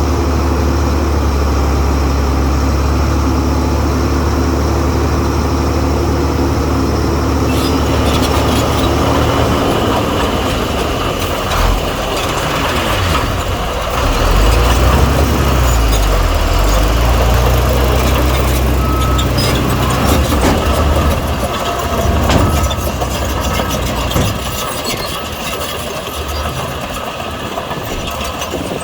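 Heavy diesel engines of earthmoving machinery running. The engine note is steady at first and changes about ten seconds in, with a tone that rises and falls midway and scattered clanks and knocks through the second half.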